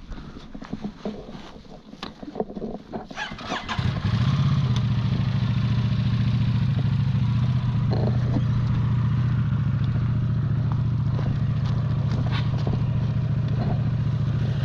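Husqvarna 701 Enduro's single-cylinder engine: a few clicks and knocks, then about four seconds in it starts and settles into a steady idle.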